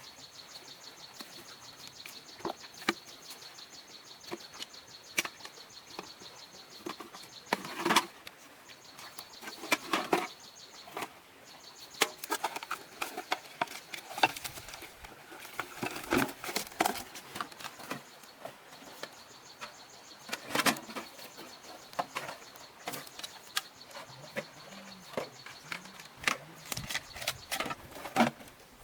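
Irregular knocks and clicks of objects being handled, loudest in a few clusters, over a steady high-pitched drone.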